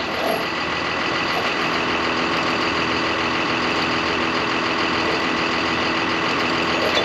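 Heavy diesel engine idling steadily, with an even, unchanging note.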